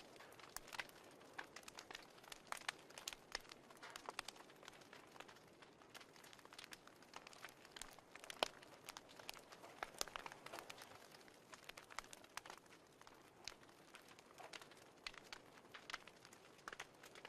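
Fireplace crackling: irregular sharp pops and snaps over a faint hiss.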